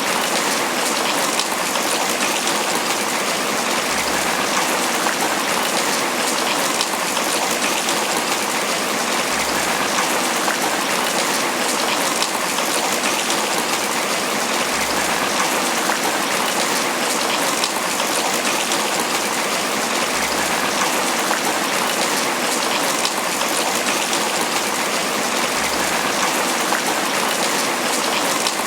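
Tropical rain falling steadily on banana leaves: a dense, even patter of drop strikes.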